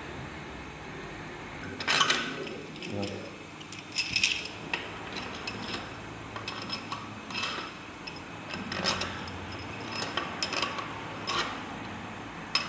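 Hand tools and metal parts clinking and clattering during work on a BMW N47 engine's timing chain. The knocks come irregularly, the loudest about 2 and 4 seconds in.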